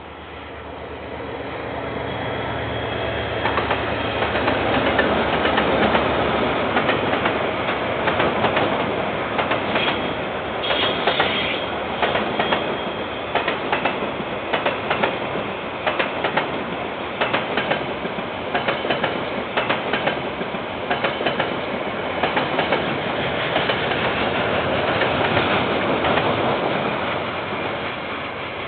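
KiwiRail diesel train passing close by. It builds up over the first few seconds with a low engine hum, then a long run of steady wheel clicks over the rail joints as the wagons go by, fading near the end.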